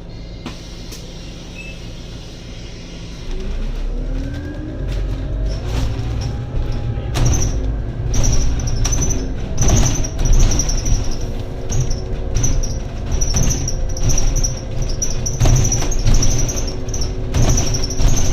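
Scania N280UD double-decker bus's five-cylinder diesel heard from inside the bus as it pulls away from a stop: the engine note rises from about three seconds in as the bus accelerates, and from about seven seconds on the cabin fills with rattles and knocks as it gets under way.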